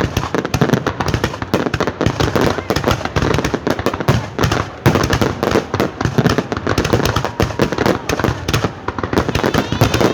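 Fireworks display: a dense, unbroken run of bangs and crackles, many each second.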